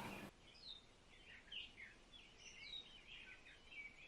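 Faint chirping and tweeting of small birds: a string of short, quick chirps that slide up and down in pitch, several overlapping.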